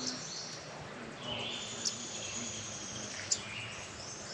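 Birds chirping and calling over a steady background of insects, with two sharp clicks about two and three and a half seconds in.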